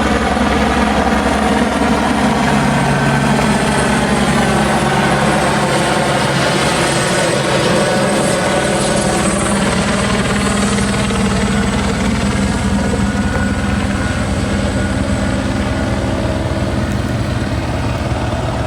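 Helicopter hovering or circling overhead, a loud, steady rotor and engine drone throughout.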